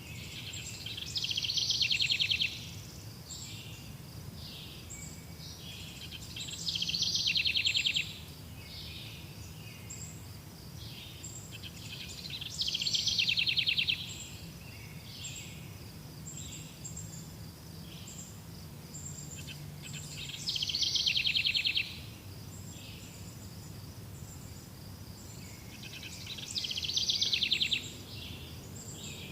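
Songbirds singing in a forest: one bird repeats a loud song phrase about every six seconds, each ending in a fast trill, while other birds give short high chirps between the phrases. A steady low background hum runs underneath.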